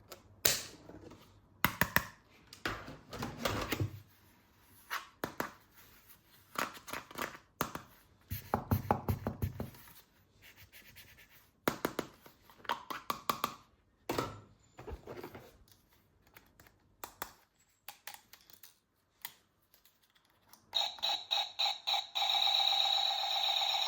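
Plastic toy guns being handled, with irregular clicks, knocks and short rattles of plastic parts. Near the end a loud, steady electronic sound with several held tones starts and carries on.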